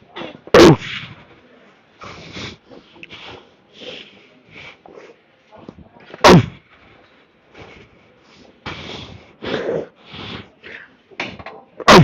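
Three loud thumps about five and a half seconds apart, with softer scattered noises and breathing between them.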